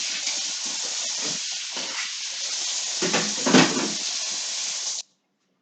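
A steady hiss with a few soft knocks, the loudest about three and a half seconds in, cutting off abruptly about five seconds in.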